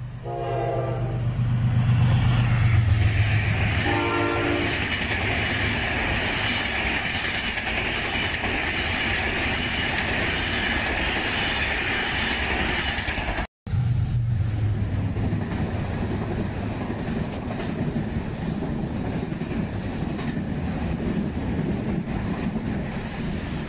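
Diesel-hauled passenger train sounding its horn twice, a longer blast at the start and a short one about four seconds in, then passing with a steady rumble and rattle of coaches on the rails. The sound cuts off abruptly about halfway through, and another passenger train's coaches roll past with the same steady rumble.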